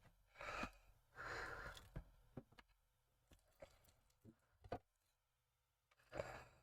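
Faint handling of small model parts: a few light clicks and taps, with soft breaths or sighs in between.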